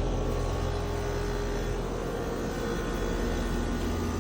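A 5-ton Trane XR14 heat pump's outdoor unit running in cooling mode: a steady low compressor hum under the even rush of the condenser fan.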